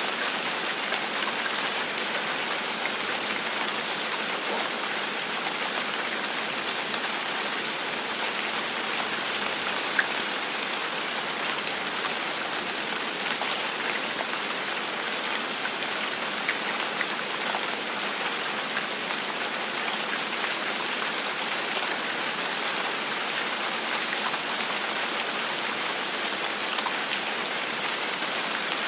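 Steady rain falling on a surface: an even hiss with scattered drops ticking through it, one sharper drop about ten seconds in.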